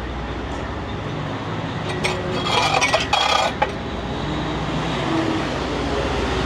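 Semi truck's diesel engine idling steadily, heard from the cab, with a short run of clinking and rattling from about two to three and a half seconds in.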